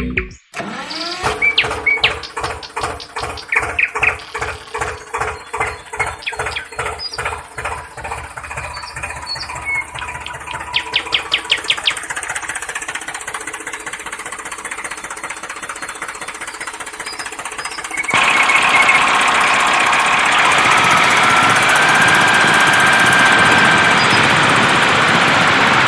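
Tractor engine chugging at an even pace of about three beats a second, then settling into a steadier run. About eighteen seconds in it gives way suddenly to a louder, steady rushing noise with faint whistling tones.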